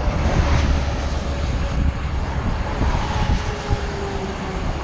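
Wind buffeting the microphone while riding: a steady low roar, with a faint steady hum above it.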